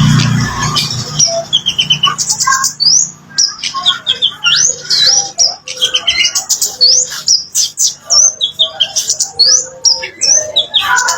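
Kemade bird singing: a busy, varied song of quick high chirps and rising and falling whistles in rapid phrases with short gaps.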